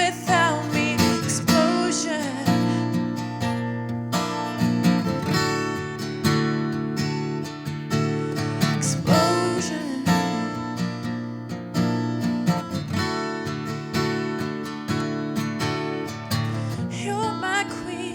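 Acoustic guitar strummed and picked in steady rhythm: the instrumental passage of a live acoustic pop song.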